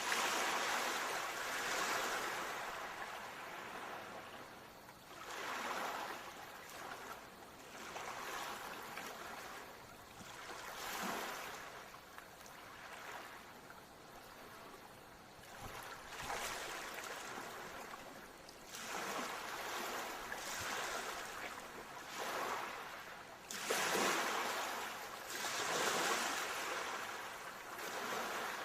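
Ocean surf: waves swelling and washing in one after another, every few seconds.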